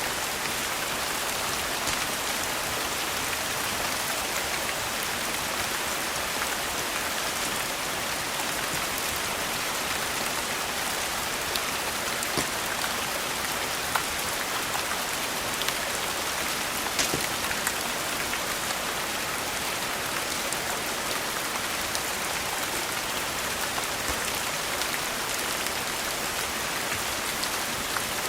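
Steady rain falling on a surface, an even hiss with scattered sharp clicks and ticks through it.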